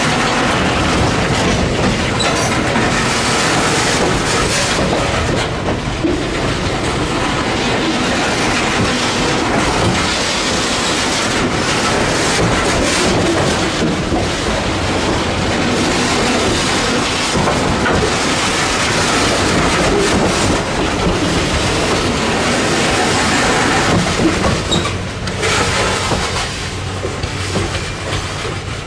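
Freight train of boxcars and gondolas rolling slowly past over a switch, steel wheels clacking and rumbling over the rail joints. The sound eases slightly in the last few seconds.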